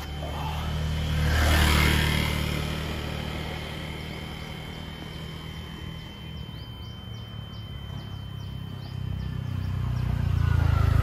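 Motor vehicle engines running, swelling loudly about two seconds in and again near the end as they pass, over a thin steady high-pitched tone.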